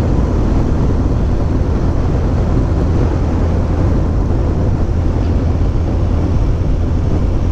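Kawasaki Ninja ZX-14R's inline-four engine running steadily, heard under an even rushing noise with a constant low rumble.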